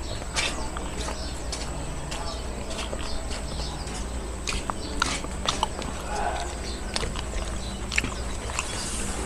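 Close-up chewing and mouth sounds: scattered wet clicks and smacks as someone eats with their hands, over a steady low hum.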